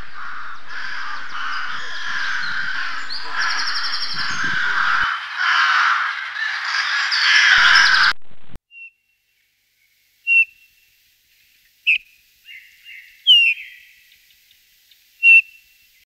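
Birds chirping: a dense flock chattering for about eight seconds, cut off abruptly, then a few single short, sharp calls.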